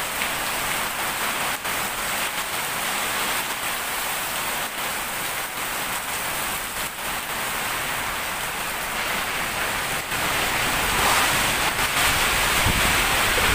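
Heavy tropical rain pouring steadily onto a paved road and vegetation. About eleven seconds in, it grows louder and heavier as wind drives the rain, with a deeper rumble near the end.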